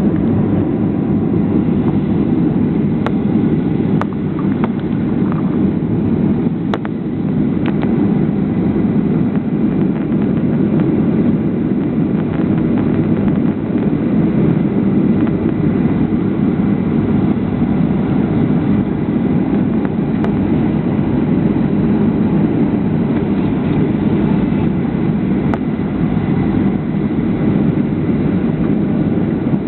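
Airliner cabin noise: a steady, loud rumble of the jet engines and airflow heard from inside the cabin during the landing, with a few faint clicks.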